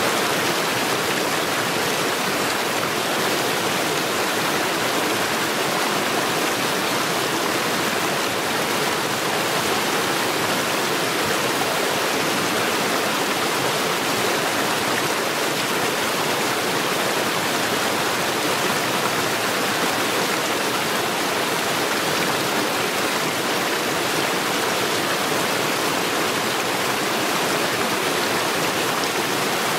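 Stream water rushing steadily over stones, an even, unbroken wash of sound.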